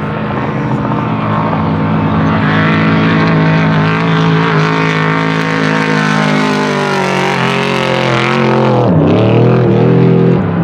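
T1 desert trophy truck engine running at high revs, growing louder as it approaches. About nine seconds in the pitch drops sharply and then climbs back up.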